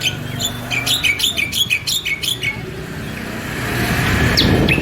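Songbird chirping a fast run of sharp repeated notes for about two seconds. A passing vehicle's noise then swells up, with a few more chirps near the end.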